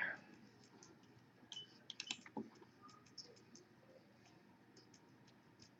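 Faint clicks of a computer keyboard and mouse, a short cluster about two seconds in and a few scattered ticks, over near silence.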